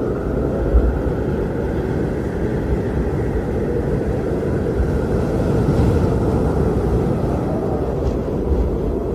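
Strong blizzard wind blowing steadily, a deep even rush that swells and eases a little, with a fainter higher howl riding above it.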